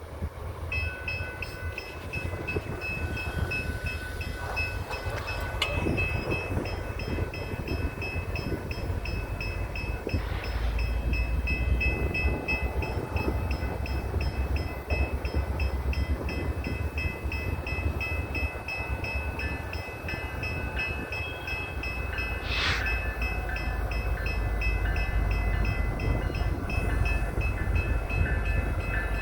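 Loaded coal train moving, a low rumble with steady high-pitched ringing tones pulsing in a fast, even rhythm above it. A short sharp burst of sound cuts through about three-quarters of the way in.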